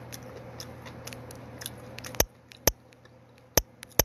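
Close-up mouth sounds of a person chewing food, with small wet clicks. About halfway through come four sharp, loud smacks.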